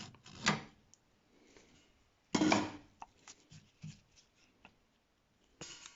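Brief rubbing and handling noises, two short bursts with the second the loudest, followed by a few faint light clicks and a short rustle near the end.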